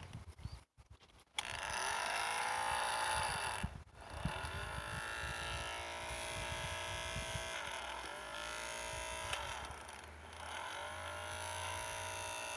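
A homemade boat's small motor running, its pitch dipping and climbing back up about three times as its speed changes. The sound drops out briefly near the start.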